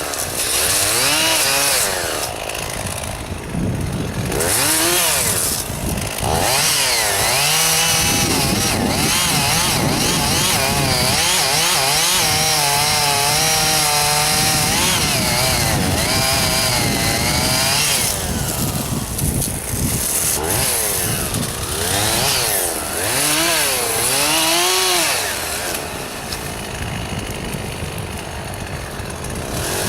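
Two-stroke chainsaw cutting juniper into rounds, its engine pitch rising and falling again and again as it revs into the cut and eases off. Near the end it drops back toward idle.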